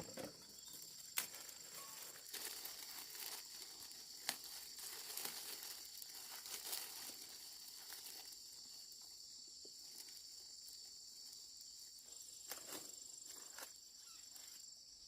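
Steady high-pitched chirring of insects, with intermittent rustling and crackling and a few sharp clicks from handling in the foreground.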